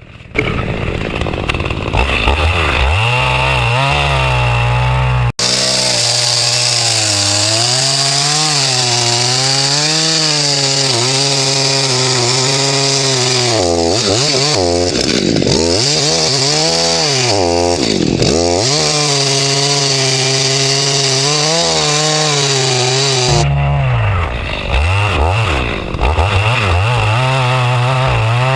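Two-stroke chainsaw running at full throttle and cutting into a large tree trunk, with a steady high engine note and the rasp of the chain in the wood. Twice near the middle the revs sag and recover as the chain loads up. A little after three quarters of the way through, the rasp drops away as the saw comes out of the cut and runs on.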